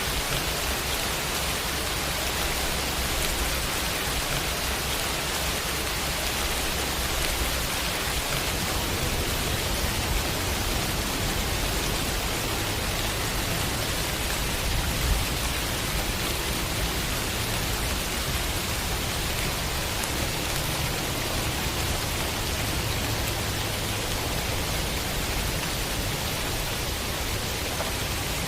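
Heavy rain falling steadily in a dense, even hiss. A low rumble of distant thunder swells underneath from about eight seconds in, strongest around the middle.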